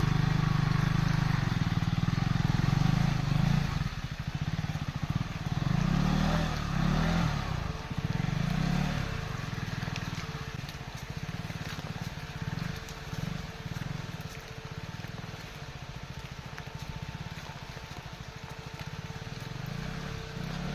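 Motorcycle engine revving in repeated swells under load while the bike is being pushed along a muddy off-road trail. It is loudest for the first few seconds, then runs lower and more evenly.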